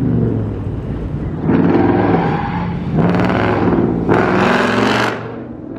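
Car engine revving hard, with three sharp surges about a second apart, then dying down near the end.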